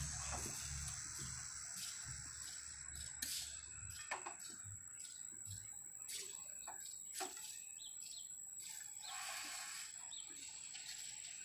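Outdoor ambience with birds chirping over a steady high hiss. There are a few sharp clicks and knocks at about three, four and seven seconds in, and a short rush of noise near nine seconds.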